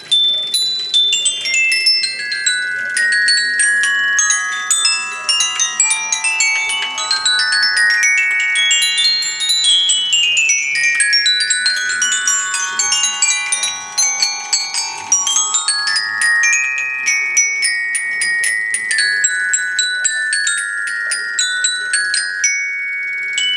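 Glockenspiel played with mallets: fast runs of ringing metal-bar notes, sweeping down in pitch through the first half and climbing back up in the second.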